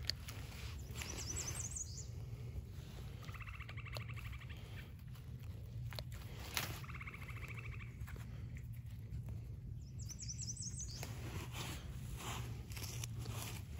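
Wild songbirds singing: a high run of quick notes about a second in and again near the end, and a fast, buzzy trill twice in between. A sharp click about halfway through as hand pruners snip a morel stem, with light rustling of leaves and a steady low rumble underneath.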